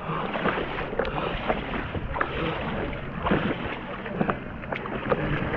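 Kayak being paddled across open lake water, with water noise and wind on the microphone and scattered small knocks throughout.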